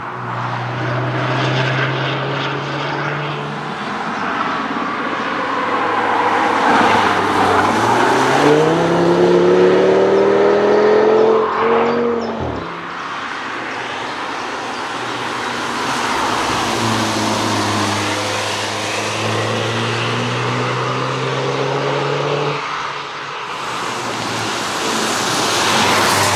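Cars driven hard past the trackside, engines climbing in pitch as they accelerate. Near the middle, one car passes close and its engine note drops sharply as it goes by.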